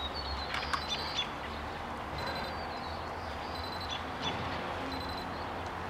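RC transmitter low-battery alarm: short high beeps repeating every second or so, warning that the transmitter's battery is low.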